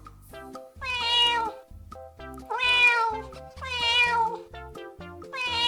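Domestic cat meowing four times, each long meow about a second apart, over light background music.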